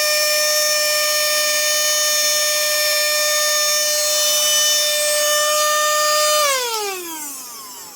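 Handheld mini vacuum cleaner's small electric motor running with a steady high whine while sucking up sugar. About six and a half seconds in it is switched off and the whine falls in pitch and fades as the motor spins down.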